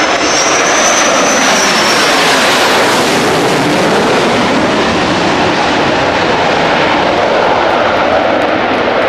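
EA-6B Prowler's twin J52 turbojet engines during a flyby: a loud, steady rushing jet noise. A high whine over it dips in pitch and fades within the first two seconds.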